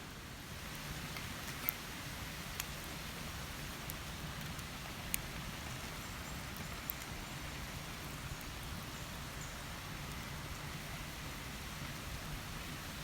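Steady rushing water noise, with a few sharp isolated ticks over it.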